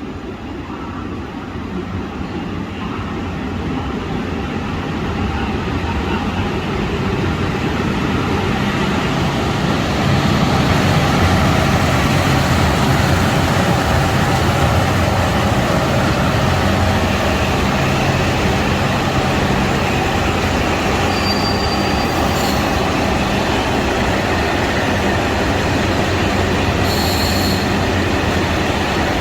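KiHa 183 diesel multiple unit running on the line. The sound builds over about the first ten seconds, then holds steady, with a couple of brief high squeals in the second half.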